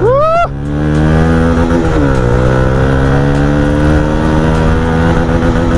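Motorcycle engine accelerating hard: its note climbs, falls sharply at an upshift about two seconds in, then climbs again more slowly through the next gear.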